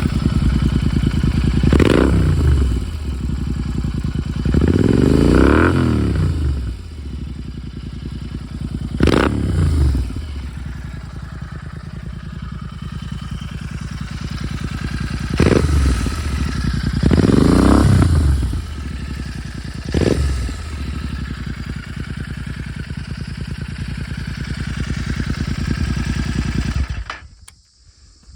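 Royal Enfield Continental GT650's parallel-twin engine idling through an S&S exhaust with the baffles removed, blipped about six times: four short, sharp revs and two longer ones that rise and fall back to idle. The engine sound cuts off suddenly near the end.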